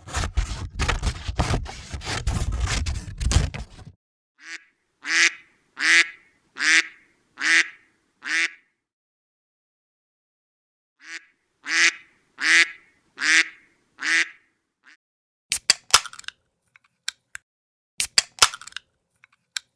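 A bird calling in two runs of short, evenly spaced calls, five or six calls a run, about 0.7 s apart. It is preceded by about four seconds of loud, deep, rumbling noise, and sharp clicks follow near the end.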